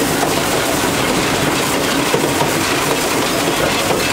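Steam train hauled by Clover Valley No. 4 rolling along the track: a steady rattle and rumble of wheels on rails and moving cars.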